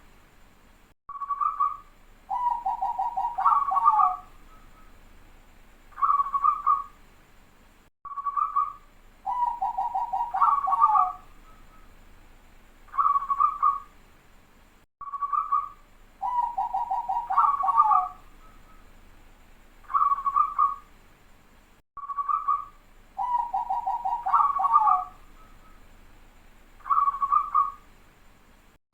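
A zebra dove (perkutut) singing its cooing song over and over: short coos, then a rapid rolling trill with a higher note on its end, the whole phrase repeating about every seven seconds. It is a dense, close-set 'rapat' song of the kind played as a lure call for wild zebra doves.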